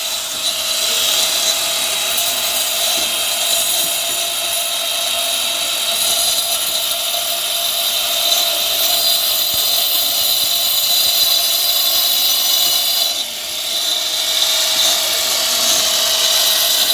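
Angle grinder cutting a groove into a wall for a concealed pipe run, running steadily at full speed with a constant whine, easing off briefly about thirteen seconds in before cutting on.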